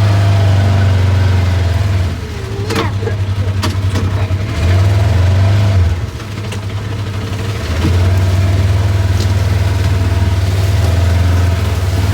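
Vehicle engine running at a low steady pitch, easing off twice and picking back up, with a few sharp cracks around the second and third seconds.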